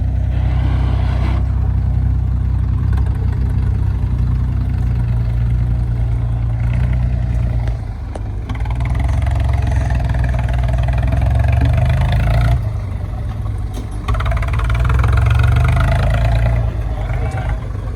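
Tractor diesel engine running hard, the revs rising and falling: it dips about eight seconds in and again around thirteen seconds, with two long stretches of higher revs between and after.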